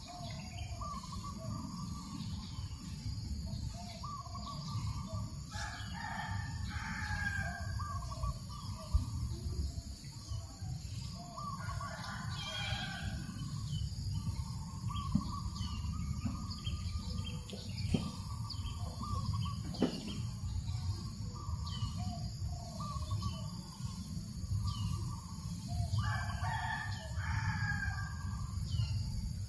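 Rooster crowing three times, each crow lasting about two seconds, against small birds chirping in short repeated calls and a steady low wind rumble on the microphone.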